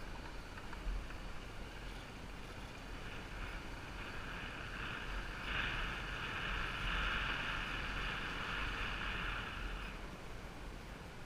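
Wind buffeting the microphone over the drone of a moving motorbike, with a higher, hissing sound that swells about halfway through and fades again near the end.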